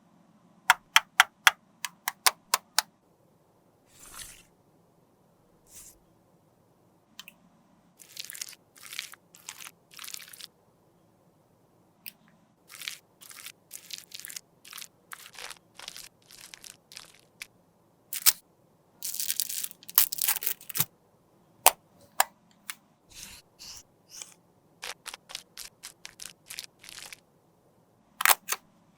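Old lipstick being cut, crushed and worked with small tools, heard close up as a long series of short crunching clicks and scraping strokes. A quick run of rapid clicks comes near the start, and denser scraping follows.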